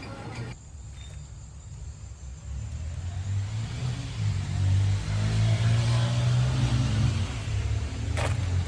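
Car engine and road noise, building in loudness about three seconds in as the car picks up speed, with a sharp click near the end.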